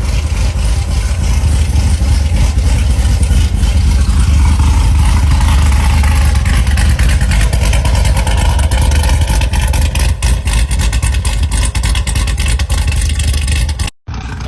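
Chevrolet Corvette C7 Z06's supercharged 6.2-litre V8 running with a deep, loud exhaust drone, its sound cutting out abruptly for a moment near the end.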